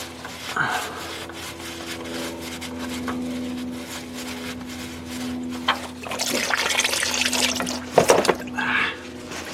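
Used engine oil trickling and splashing into a drain pan. The flow grows louder in the second half, with a sharp knock about eight seconds in, over a faint steady hum.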